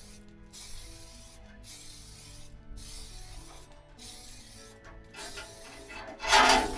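Hissing spray in long bursts with short breaks about once a second, over background music; a louder scraping clatter near the end.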